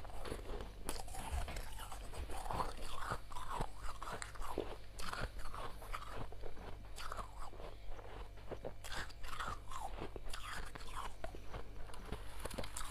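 Soft freezer frost being bitten and chewed, a dense run of crisp crunches.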